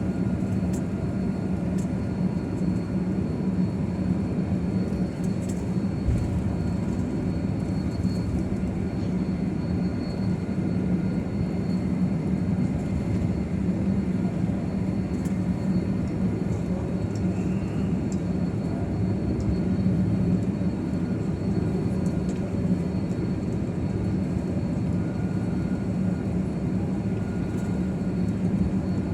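Steady jet airliner cabin noise: an even engine and air drone heard from inside the cabin, with a strong low hum, as the plane taxis after landing.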